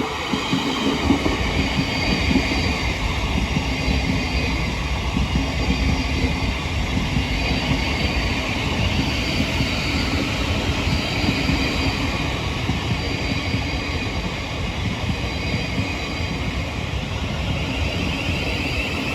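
Southeastern Class 707 electric multiple unit running past on the rails: a steady rumble of wheels on track with a whine from its traction motors.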